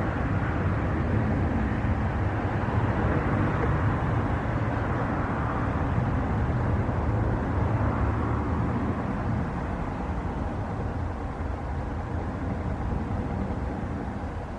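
Jet airliner engines running, a steady roar that fades gradually over the last few seconds as the aircraft moves away.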